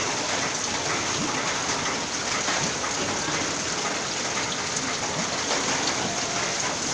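Heavy rain falling steadily, with many small close drop impacts.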